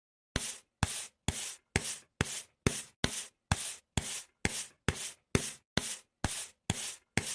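Rhythmic rubbing or scraping strokes, a little over two a second, each starting sharply and dying away quickly, with silence between them.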